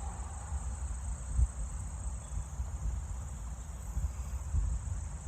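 Steady high-pitched insect chorus, like crickets, over a low rumble with a few soft bumps, the loudest about a second and a half in.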